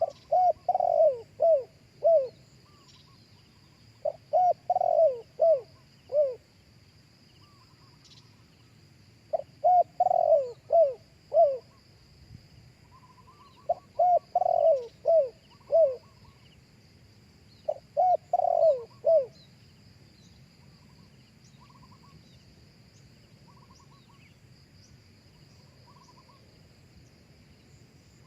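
Spotted dove cooing: five phrases of four or five coos each, coming about every four to five seconds and stopping about 19 seconds in.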